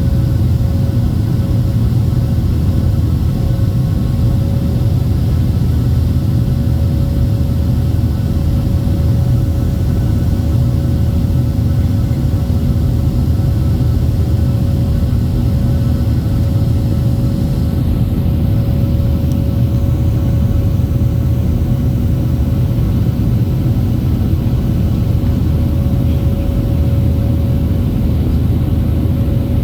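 Steady cabin noise of a Boeing 737 during takeoff and climb: a loud, deep rumble of the jet engines and airflow, with a steady hum running through it.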